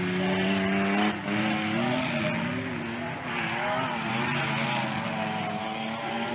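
Tough-truck race engines revving hard at full throttle, the pitch climbing and dropping again and again as the drivers work the throttle over the course.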